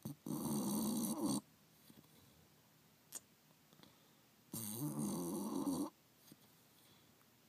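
Sleeping bulldog snoring: two snores, each a little over a second long, about four seconds apart, with quiet breaths between.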